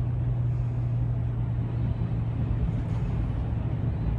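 Motor vehicle running steadily, a constant low engine drone under road noise.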